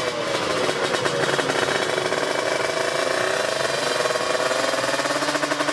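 Tuned two-stroke Kawasaki Ninja 155cc drag-bike engine running hard with a rapid, buzzy pulse, its pitch dipping and rising as the throttle is worked.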